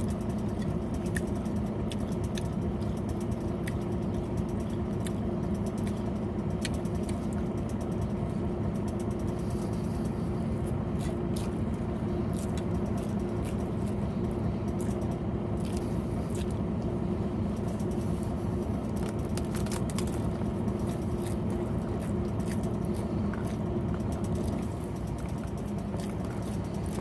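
Truck engine idling steadily, heard from inside the cab as a low, even hum, with scattered small clicks on top. The hum drops slightly in level near the end.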